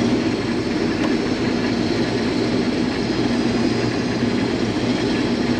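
Case IH combine running steadily under load while cutting wheat: an even drone of the engine and threshing machinery.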